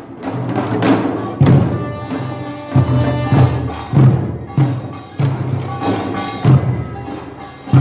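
Korean traditional folk music performed live: a drum struck in an uneven beat, about one stroke a second, each stroke ringing deep, over a sustained melody line.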